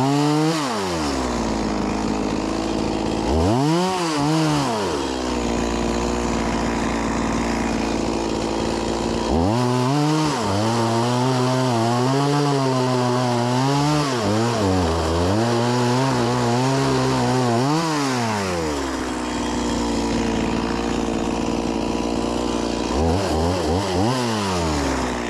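Stihl MS 180 C-BE two-stroke chainsaw idling between throttle bursts: short revs near the start, at about four seconds and near the end, and a long stretch at full throttle from about ten to nineteen seconds whose pitch dips and wavers as the chain works through a log.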